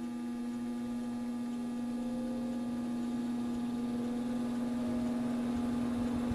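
Two small all-metal NOEVSBIG solder fume extractor fans running, with a steady low hum and a fainter tone that rises slowly as they gather speed. The one that was not oiled makes a purring sound.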